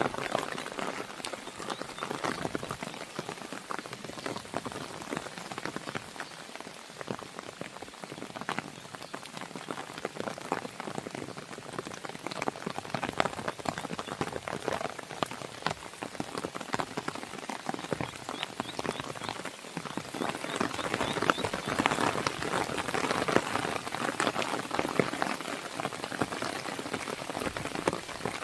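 Steady rain falling against a window, a dense stream of small drop impacts, growing louder about two-thirds of the way through.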